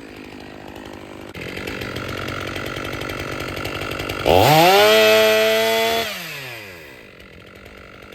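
Stihl MS 500i two-stroke chainsaw idling, then snapped to full throttle about four seconds in. It holds a high, steady pitch for about two seconds before winding back down to idle.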